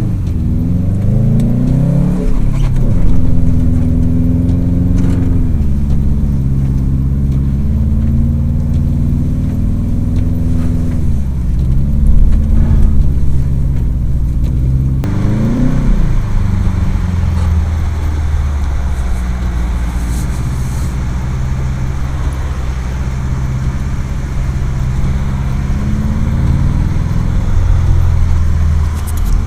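Subaru WRX STI's turbocharged flat-four engine, heard from inside the cabin, revving up and dropping back several times in the first half, then pulling at a fairly steady pitch with more road hiss over it for the rest.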